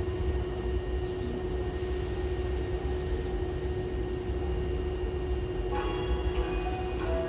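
A standing electric train and station platform hum, with a low rumble and one constant steady tone. About six seconds in, a chiming melody of bell-like notes starts over it, the departure signal that comes before the doors close.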